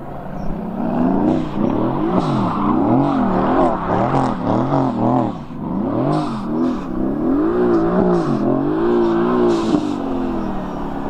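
Mercedes-AMG GT's twin-turbo V8 revving up and down over and over as the car drifts, its pitch swooping up and falling back about once a second, with brief bursts of tyre hiss in between.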